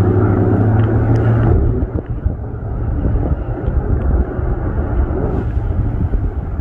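Keikyū 2100-series electric train approaching from a distance, a low rumble of wheels on rail. A steady humming drone in several tones stops about a second and a half in, leaving a rougher rumble with wind on the microphone.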